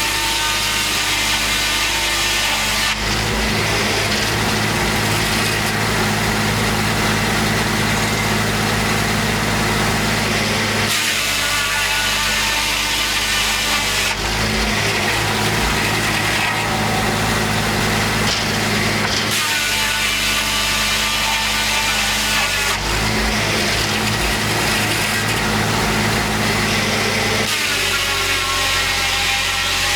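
Homemade circular sawmill running, its engine going steadily while the circular blade saws a large white pine log. The sound switches every few seconds between a dense hissing cut and a ringing whine.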